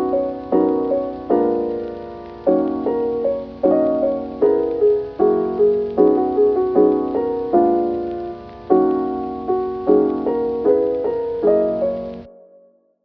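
Background piano music: chords struck one after another about once a second, each ringing and fading. Near the end the music fades out to silence.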